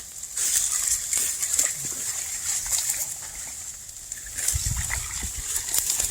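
Footsteps splashing and sloshing through shallow marsh water and wet grass, irregular steps, with heavier low thuds in the last second and a half.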